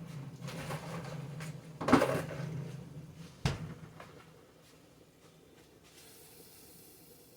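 Kitchen handling noises: a few knocks and rustles, a loud clatter about two seconds in and a sharp click like a door or lid shutting about three and a half seconds in, over a low hum that dies away soon after.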